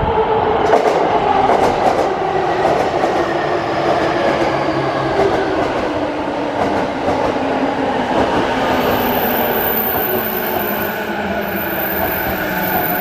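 Chuo Line E233-series electric train rolling into a station, with a steady rumble of wheels on rail. Its wheels click over rail joints in the first few seconds, and later a faint whine glides down in pitch as it slows.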